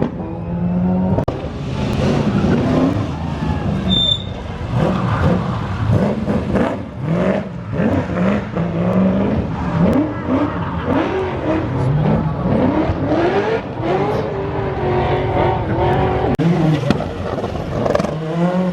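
Rally car engines accelerating hard, the pitch climbing and dropping again and again as they change gear.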